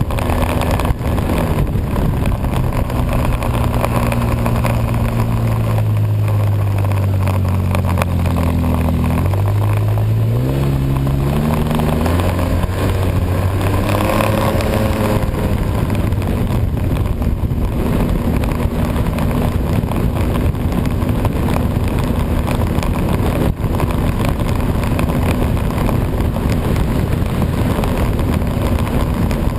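Snowmobile engine running under way at a steady speed. Its pitch sinks for a few seconds about a third of the way in as the throttle eases, then climbs back as it is opened again.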